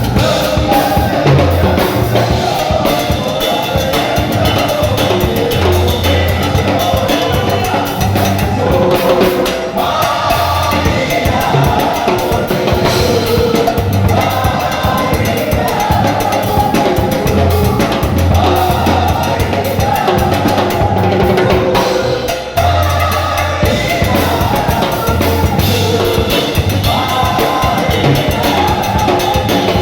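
Church worship band music with a drum kit keeping a steady beat under a bass line.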